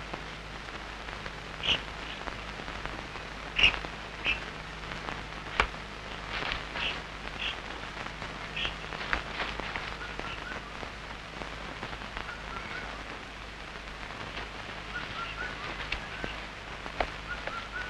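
Scattered short bird chirps over a faint steady hum, with one sharp click about five and a half seconds in.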